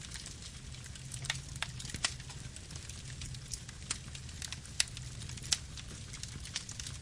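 Wood campfire burning: irregular sharp crackles and pops, a few louder snaps, over a steady low rumble of the flames.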